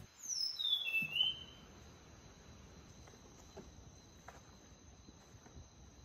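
Rainforest ambience: a bird gives a loud run of falling whistled notes in the first second or so, over a steady high-pitched insect drone that continues throughout.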